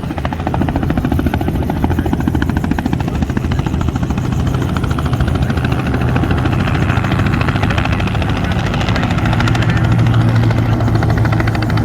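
Helicopter running with a fast, even rotor-blade chop over a low engine hum, growing a little louder near the end.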